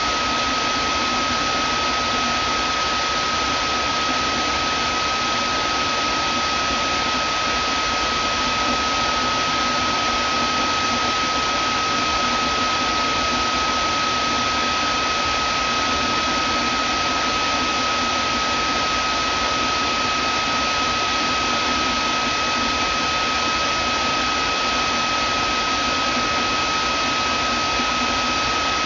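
Vacuum cleaner motor running steadily, an even rushing noise with a high steady whine.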